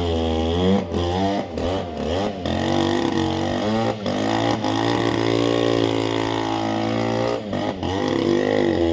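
Stihl 070 two-stroke chainsaw running at high revs, its pitch rising and falling as it cuts through a log, with a few brief dips in the sound.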